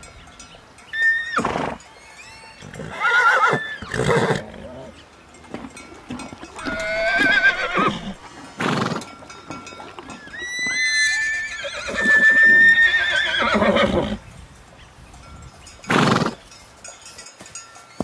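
Horses neighing: several long whinnies that waver in pitch, with a few short, harsh sounds in between.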